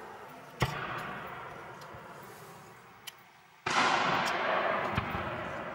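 Aerial firework shells bursting: a sharp bang about half a second in, then a louder boom a little past halfway whose echo dies away slowly, and another crack near the end.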